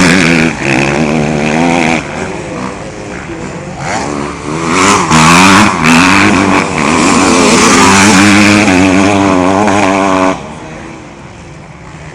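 Several motocross bikes' engines revving hard, their pitch climbing and falling as the riders work the throttle and gears. The loudest run cuts off sharply near the end, leaving fainter engine noise.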